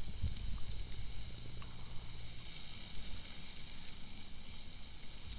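Meat frying on a hot iron griddle: a steady high sizzle.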